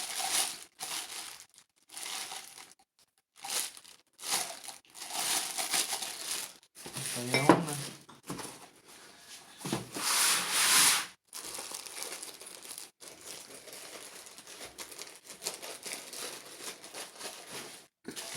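Packing material crinkling and rustling in irregular bursts as items are handled and unwrapped, loudest about ten seconds in.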